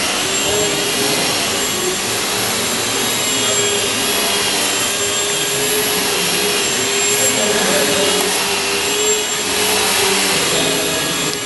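Motor and propeller of a small indoor radio-control model airplane running in flight. It makes a steady whine that wavers slowly in pitch over a hiss.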